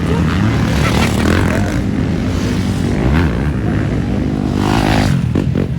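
Several motocross dirt bike engines running hard together, their pitch rising and falling.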